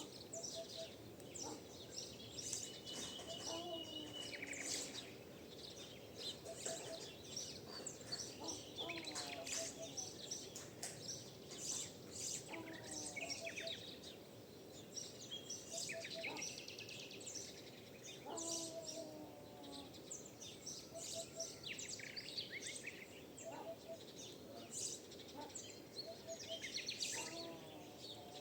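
Dawn chorus of many songbirds calling and singing over one another, with a low three-note call repeating every few seconds beneath them.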